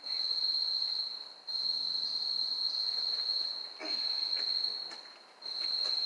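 A steady, high-pitched insect trill that breaks off briefly every second or two and starts again.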